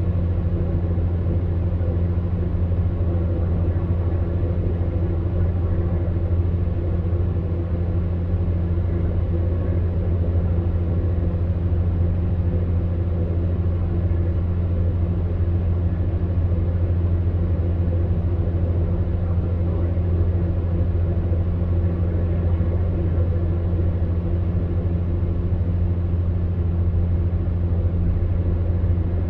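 Electric fan heater running steadily: a low, even hum with a soft whoosh of air over it.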